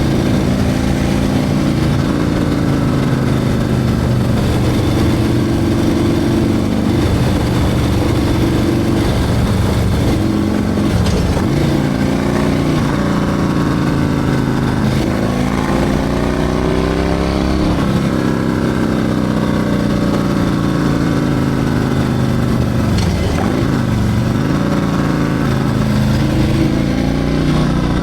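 Harley-Davidson Milwaukee-Eight 114 V-twin with a Screaming Eagle 447 torque cam running. Its note holds steady for stretches, then falls and rises in pitch several times as engine speed changes.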